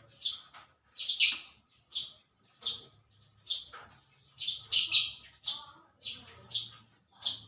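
A small bird chirping again and again: short, high-pitched calls about one and a half a second, with a few louder double chirps.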